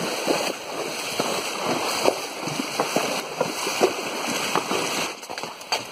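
Horses wading through a shallow stream, their hooves splashing and sloshing the water in irregular strokes; the splashing dies down about five seconds in.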